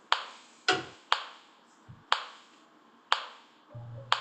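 Metronome ticking steadily at about one click a second (around 60 beats a minute), each tick short and sharp. A few faint low sounds fall between the ticks, the longest near the end.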